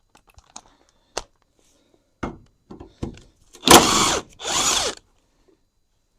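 Handheld power tool run in two short bursts, each about half a second long, after a few sharp clanks and knocks of tools being handled.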